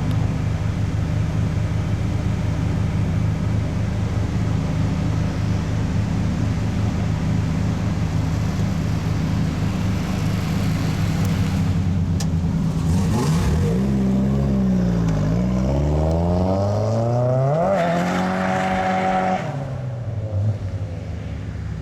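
BMW E30 with a 2.5-litre 325i straight-six engine running steadily at low revs, then revved up and down twice from about 13 seconds in, held high for a moment and dropped back to idle near the end.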